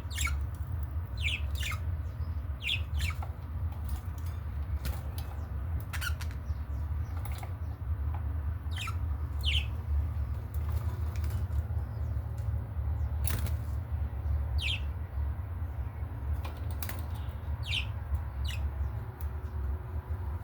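Budgerigars chirping: short, sharp chirps that slide downward in pitch, coming irregularly every second or so, over a steady low rumble.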